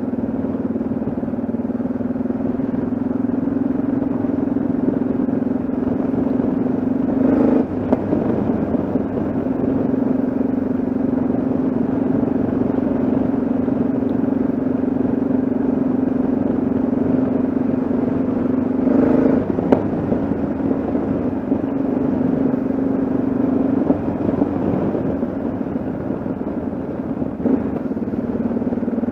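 Yamaha XT660Z Ténéré's single-cylinder engine running steadily on the move. Its note breaks briefly twice, about seven and nineteen seconds in.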